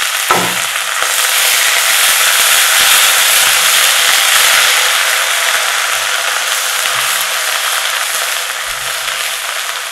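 Ginger-garlic paste frying in hot butter with whole spices in a kadai: a dense, crackling sizzle that swells over the first couple of seconds and then slowly eases off.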